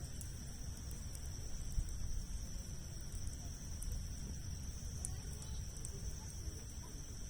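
Campfire of large logs burning, giving off sparse small crackles and pops over a low steady rumble. A steady high-pitched insect drone, like crickets, runs underneath.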